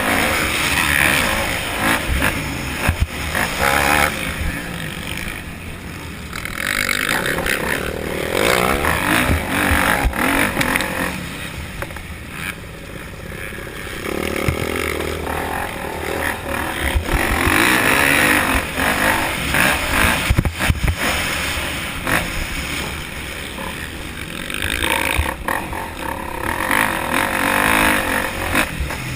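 Motocross dirt bike engine revving up and easing off in repeated swells, with scattered sharp knocks.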